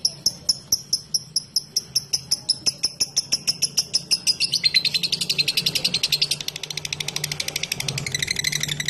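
Lovebird giving its ticking call (ngetik): sharp high chips at a few per second that speed up and, about halfway through, run into a long rapid chattering trill (ngekek).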